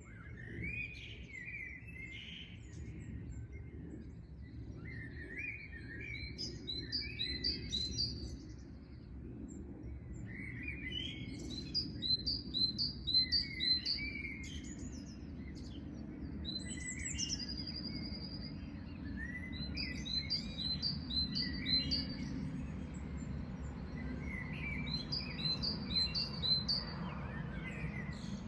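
Songbirds chirping in quick repeated series of short, high notes, several birds calling on and off, over a steady low background rumble.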